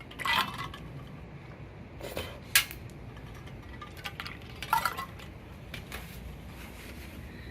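A few light metallic clinks and knocks, spaced a second or two apart, over a low steady background.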